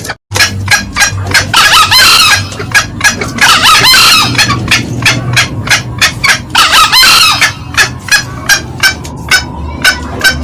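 Green junglefowl calls used as a trapping lure: a loud train of short cackling clucks, about three a second, with three longer crowing calls about 2, 4 and 7 seconds in.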